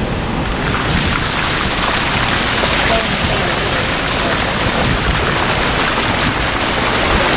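A car's tyres running through shallow floodwater: a steady rushing hiss of spray and splashing that strengthens about half a second in.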